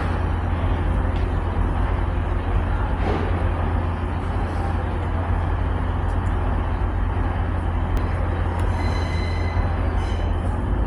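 A train at a station platform, giving a steady low rumble that holds even throughout.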